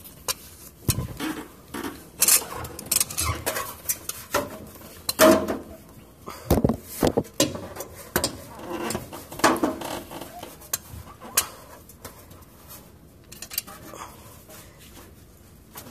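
Irregular metallic clinks, knocks and scraping from hand tools such as big pliers working on a stuck part under a car.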